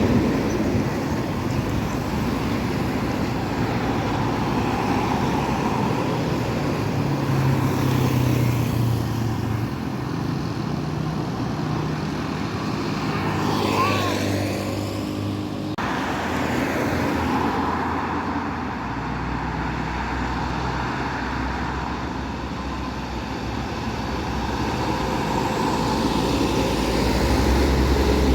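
Road traffic passing close by: motor vehicles, trucks and buses among them, going past one after another. Their engine drones rise and fade against steady tyre and road noise, and the sound changes abruptly about halfway through.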